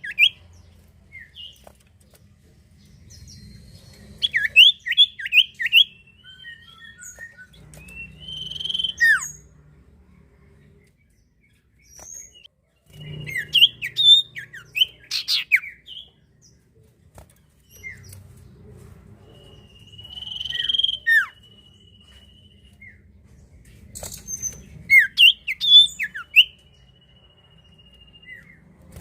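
Common iora (sirtu or cipoh) singing in bursts: clusters of short, sharp, falling whistled notes every few seconds, with one long held trill about two-thirds of the way through.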